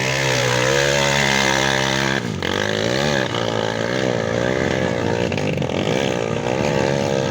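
An off-road motorcycle engine revving. It holds high revs for about two seconds, drops briefly, then the revs rise and fall again and again.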